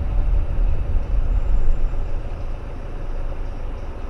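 A car's engine and road rumble heard inside the cabin as it creeps forward in slow traffic: a low, steady rumble that eases off about two and a half seconds in.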